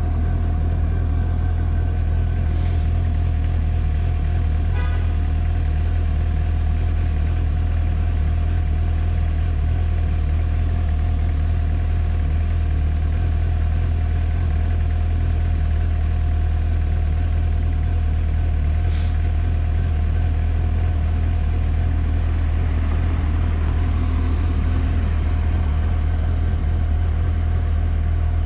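Suzuki GSX-S750's inline-four engine idling steadily at a standstill.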